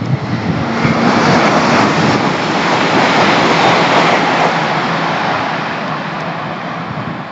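Passenger train passing through the station at speed: a loud, even rush of wheel-on-rail and air noise that is strongest a second or two in, then slowly dies away.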